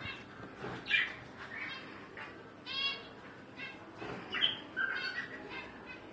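Birds calling: a string of short, shrill calls, about two a second, some rising or falling in pitch.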